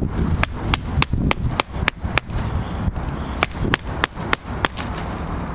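Wooden baton knocking on the spine of a Cold Steel Finn Hawk knife, driving it through damp wood: a steady run of sharp knocks, about three a second. Wind rumbles on the microphone.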